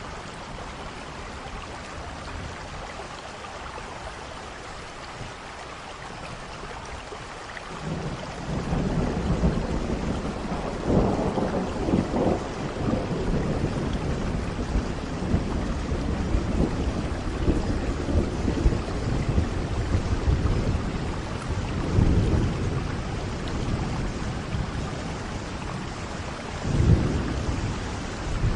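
Steady rain falling, with rolling thunder that rumbles in about eight seconds in and swells several times, loudest near the end.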